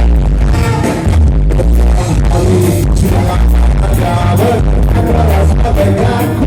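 Ska band playing loud live music, with singing over heavy bass and regular drum hits.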